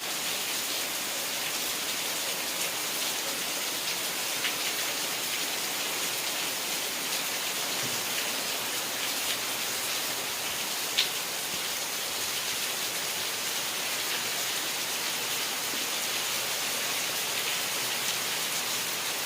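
Steady rain falling, an even hiss, with a few louder single drops striking close by, one at about four seconds in and one near the middle.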